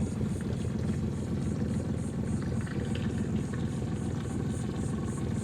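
Boat engine running steadily at low, no-wake cruising speed, a constant low drone, with a faint high pulsing about three times a second over it.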